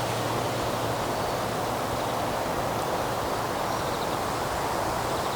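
Steady rushing of wind through the trees, an even hiss that neither rises nor falls.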